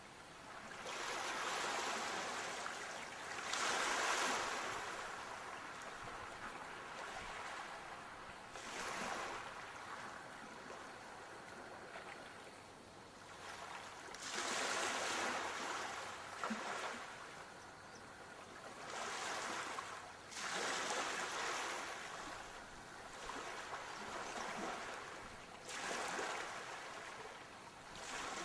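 Sea waves breaking and washing on a shore, the surf hiss swelling and falling away every few seconds.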